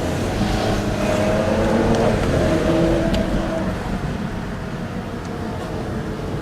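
Car engine accelerating, its pitch climbing over the first few seconds, then fading.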